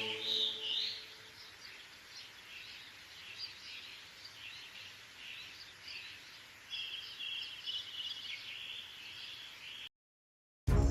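Wild birds chirping and calling, short notes with a rapid trill about two-thirds through, as music fades out in the first second. The sound cuts off abruptly to silence shortly before the end.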